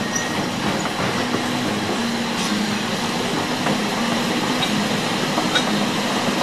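Alishan Forest Railway narrow-gauge passenger train rolling past close by: a steady rumble with a low hum that comes and goes and a few scattered light clicks.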